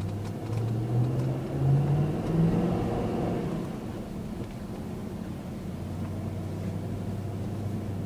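Dodge Durango's Hemi V8 pulling away on beach sand, its pitch climbing over the first few seconds, then settling into a steady, lower drone.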